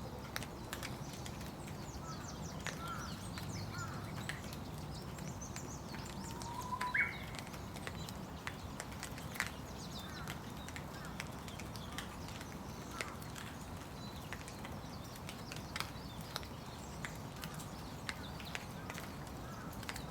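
Light rain falling, with scattered drops tapping, and small birds giving short chirps throughout; one louder call comes about seven seconds in.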